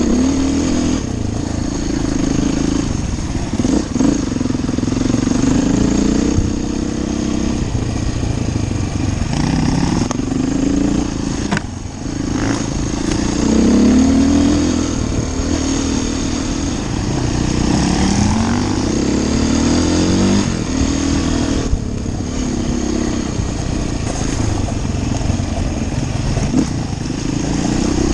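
Enduro dirt bike engine revving up and down as it is ridden, its pitch repeatedly climbing and falling with throttle and gear changes, with a brief lull about twelve seconds in.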